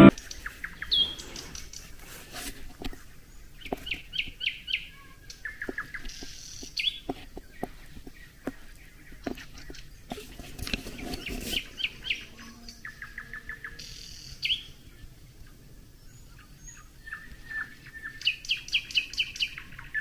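Songbirds singing in short phrases of quickly repeated high notes, each phrase a handful of notes, with pauses between phrases.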